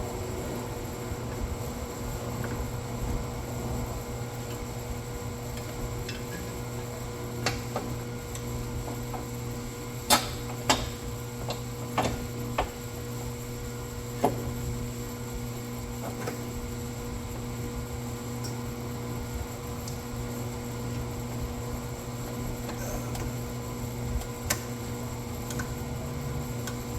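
Scattered sharp clicks and knocks of hand tools against metal parts, most of them clustered about ten to fifteen seconds in, over a steady low hum.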